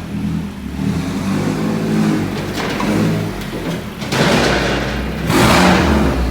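Car engine running and revving, with two loud rushing bursts about four and five and a half seconds in.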